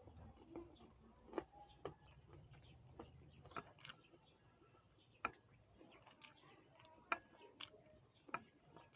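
Faint, irregular crisp crunches of a person chewing raw green guava, a sharp click every second or so.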